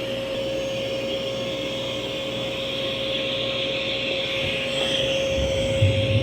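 Mova V50 robot vacuum running on carpet: a steady whine from its suction motor over the hiss of airflow, with a brief low rumble near the end.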